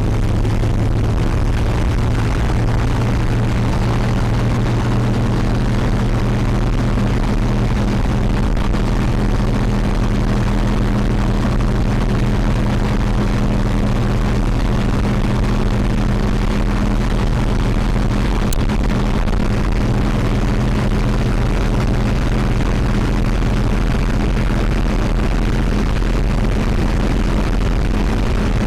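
Old REO vehicle under way: its engine and running gear drone steadily at an even speed, with a constant low hum over road noise.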